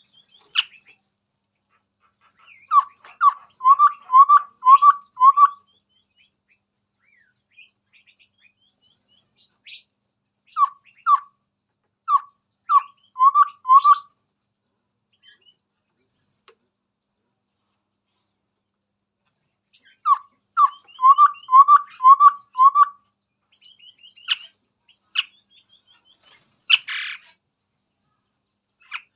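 Chestnut-rumped babbler singing: three runs of five to seven short repeated notes at one steady pitch, with higher, fainter chattering calls alongside.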